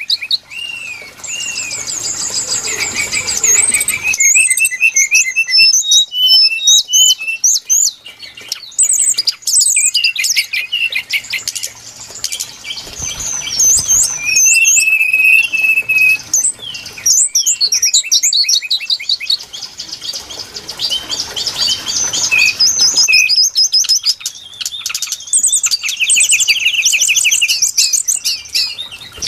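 Brown-chested jungle flycatcher singing: fast, varied strings of high whistles, rapid trills and chattering notes, almost continuous with only brief pauses.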